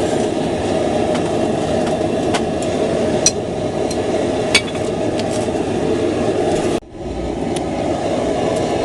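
Forge running with a steady rushing noise, with a few sharp light clicks of metal in the first half. The noise drops out briefly about seven seconds in, then resumes.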